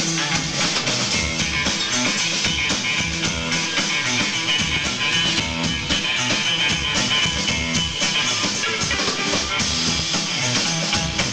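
A rock band playing live, guitar over a steady drum beat, with no singing at this point in the song.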